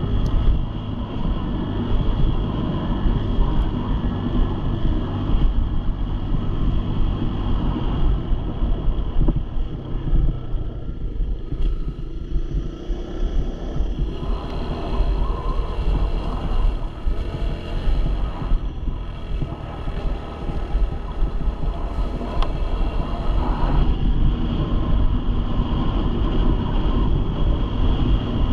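Dirt bike engine running under way, with wind buffeting the microphone; it eases off briefly about ten seconds in, then picks up again.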